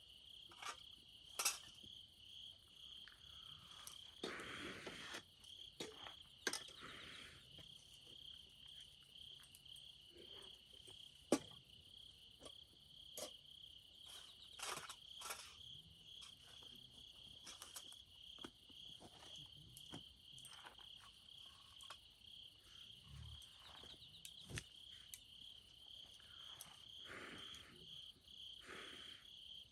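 Crickets trilling steadily in a continuous high chorus, with scattered sharp pops and cracks from a wood campfire, the loudest about a second and a half in and again about eleven seconds in.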